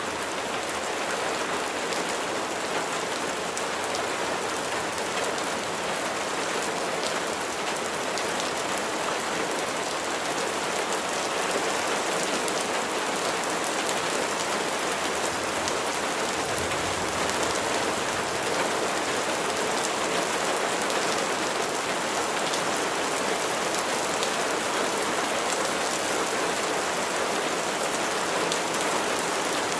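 Steady rain falling on a surface, an even hiss dotted with many fine drop ticks, slightly heavier after about ten seconds.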